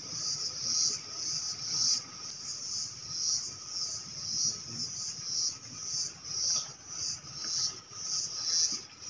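Insects chirping in a high, pulsing chorus, about two pulses a second, with a fainter steady high tone beneath.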